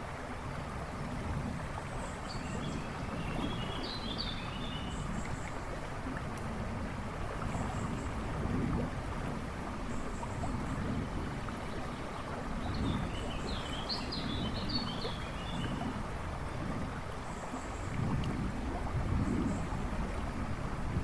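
A river rushing and babbling steadily. A songbird's twittering phrase comes twice, a few seconds in and again about halfway through, over faint high chirps from other birds.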